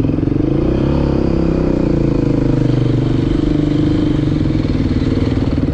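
Dirt bike engine running under way, its pitch rising as it speeds up about half a second in, then holding steady.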